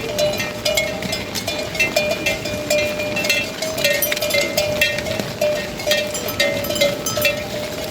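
Several livestock bells clanking irregularly and overlapping, as animals wearing them move, over a steady low ringing tone.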